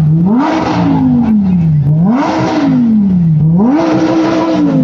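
Car engine being revved hard three times, each rev climbing quickly, holding briefly, then dropping slowly back toward idle.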